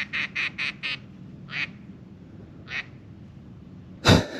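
Duck quacking: a quick run of about five quacks, then two more spaced out. A single loud bang near the end.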